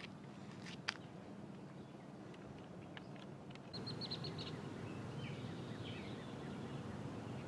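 Outdoor background noise with birds chirping: a quick run of about six high chirps just past the middle, followed by softer, wavering calls. A few light clicks come before the chirps.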